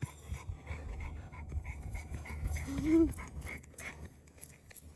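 A dog panting, with a short rising whine about three seconds in.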